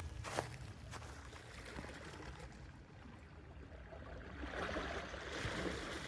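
Sea washing on a beach, with a couple of footsteps crunching in the first second; a wave surges up and washes in about four and a half seconds in, then eases off.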